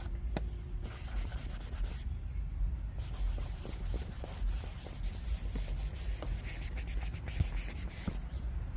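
A surface being rubbed by hand in long scratchy strokes, pausing briefly about two seconds in and again near the end.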